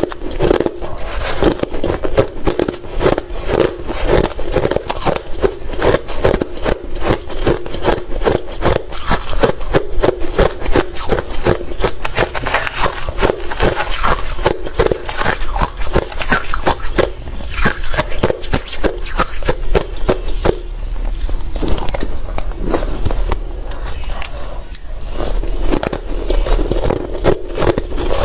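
Close-miked chewing of hard refrozen crushed ice: rapid, dense crunching and crackling as the ice is bitten and ground between the teeth.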